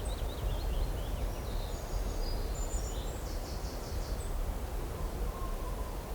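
Small birds singing short chirps and a quick trill over the first four seconds or so, over a steady low rumble of breeze on the microphone.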